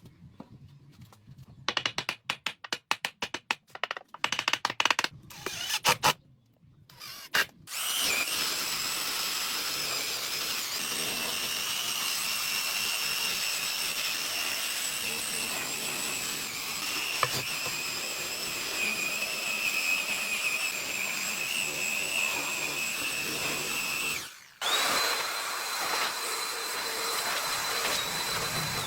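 A quick run of sharp knocks and taps on wood, then an electric power tool running steadily with a high whine. It stops briefly near the end and starts again with a higher, steadier whine.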